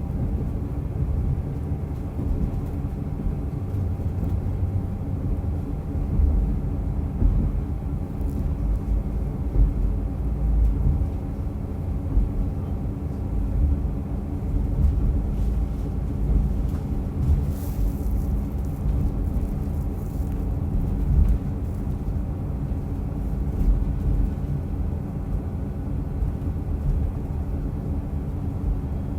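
Running sound heard inside a diesel railcar under way: a steady engine drone over the low rumble of wheels on the rails.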